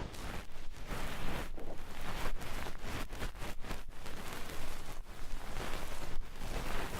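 Ear-cleaning tools scratching and rustling close against a microphone's ear in uneven strokes with short gaps between them, quicker around the middle.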